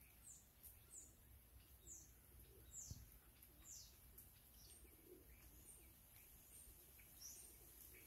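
Faint songbird chirps: short high notes, each sweeping downward, repeated about once or twice a second, over a faint low rumble.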